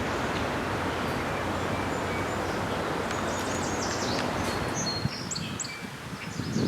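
Small birds chirping with short, high notes over a steady rushing background noise that eases off about five seconds in.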